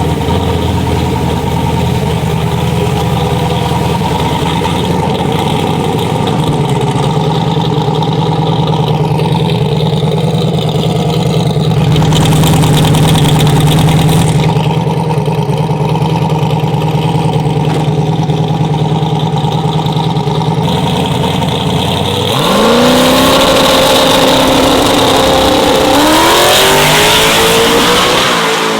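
Drag-racing vehicle engine running at a steady, loud drone for most of the stretch. About three-quarters of the way through it revs up sharply, climbs again a few seconds later, then drops back near the end.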